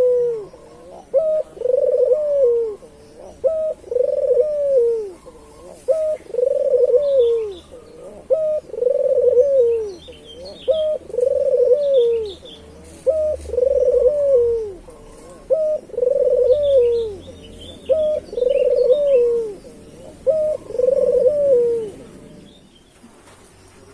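A puter (Barbary dove) cooing over and over: a short clipped note followed by a longer rolling coo, repeated about every two seconds, ten times in a row, stopping near the end. Small birds chirp faintly in the background.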